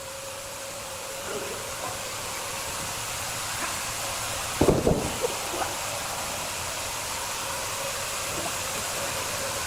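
Wood-cutting saw machine running with a steady hum and hiss that grows slowly louder, with a short clatter of knocks about five seconds in.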